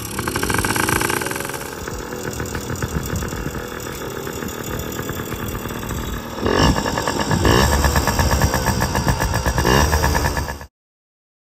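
Yamaha PW50's small two-stroke single-cylinder engine running and revving up and down, louder from about six and a half seconds in. The sound cuts off abruptly near the end.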